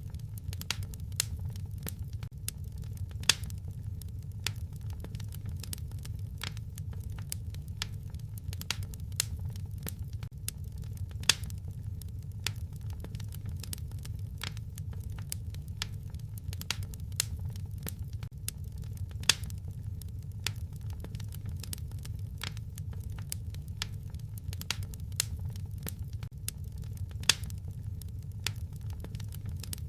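Wood fire crackling in a fireplace: frequent small, irregular snaps and pops, a few much louder ones, over a steady low rumble.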